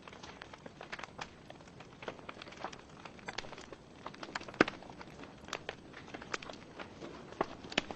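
Wood logs burning in a fireplace, crackling with irregular sharp pops over a soft, steady hiss of the fire; the loudest pop comes about four and a half seconds in.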